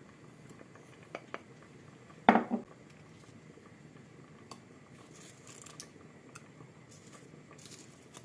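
Kitchen handling sounds: dishes and utensils being moved and set down, with two light clicks, then one loud ringing clatter about two seconds in, followed by faint clinks and rustles.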